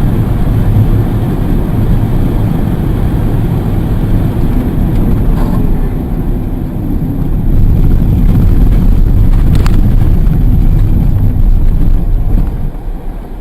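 Vehicle driving noise: a loud, steady low rumble of engine and road, with a faint falling whine partway through and one short click near the end.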